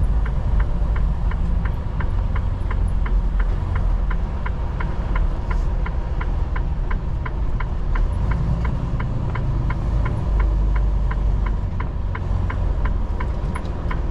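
Truck's turn-signal clicker ticking steadily, about three ticks a second, over the low rumble of the truck's engine.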